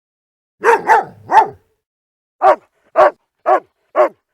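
A dog barking: a quick double bark and a third, then after a short pause four single barks about half a second apart.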